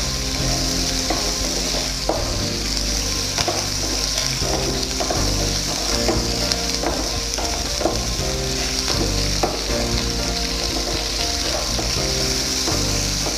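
Chopped onion, capsicum and green chillies sizzling in hot oil as they are stirred and sautéed, with a steady frying hiss and the short clacks of the utensil against the pan.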